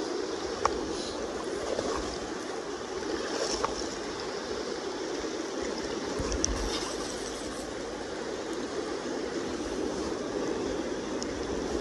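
Kenai River water rushing steadily, with a few faint ticks.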